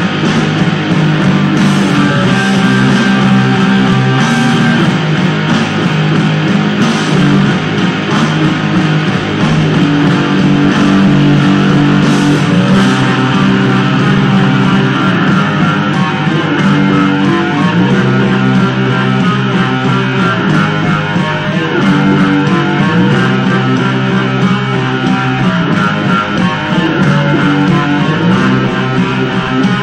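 Guitar music: plucked and strummed guitar with bass, playing steadily throughout.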